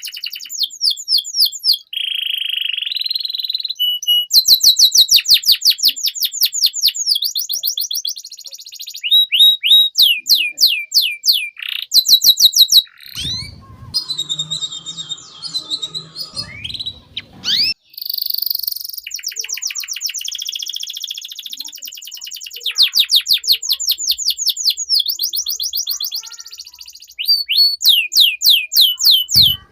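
Domestic canary singing a long, loud song of rapid trills: runs of quick falling whistles repeated many times a second, switching to a new trill every couple of seconds, with a short rougher, scratchy passage near the middle.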